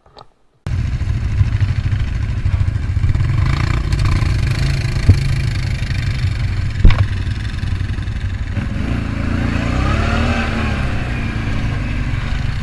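Motorcycle engine running and revving under heavy wind rumble on the microphone, starting suddenly about half a second in. Two sharp knocks come in the middle, and the engine note rises and falls near the end.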